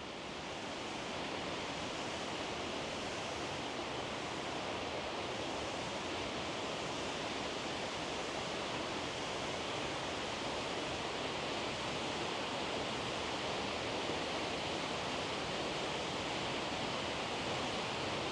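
A powerful waterfall: a steady, even rush of falling water that fades in over the first second and then holds level.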